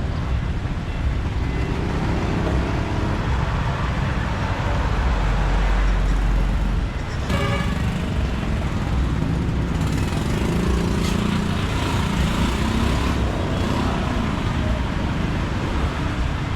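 Motorbike riding through busy city traffic: a steady low engine and road rumble with wind noise and other vehicles passing, and a brief sharp sound about seven seconds in.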